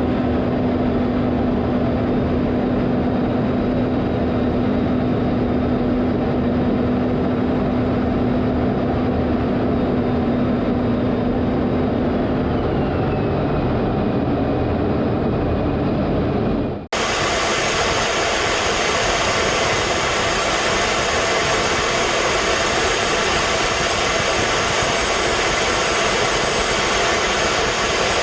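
Jet aircraft engine noise, steady and loud, with a low hum and a high whine that slides down in pitch about halfway through. About two-thirds of the way in it cuts abruptly to a brighter, hissier jet sound with steady high-pitched whines.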